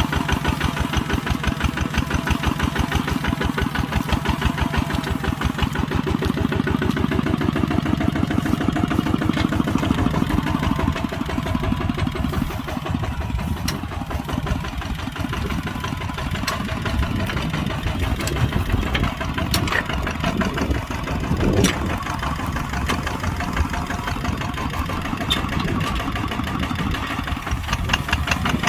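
Kubota tractor's diesel engine running steadily while plowing, with a rapid, even chugging. It eases off a little about a third of the way in, and a few sharp knocks come about two-thirds of the way through.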